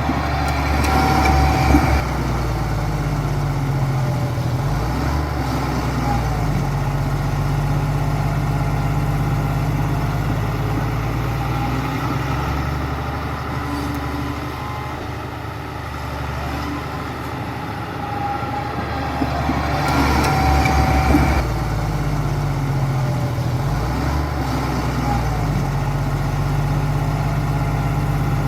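Heavy diesel engine of earthmoving machinery running steadily, with two louder, rougher spells: about a second in and again around twenty seconds in.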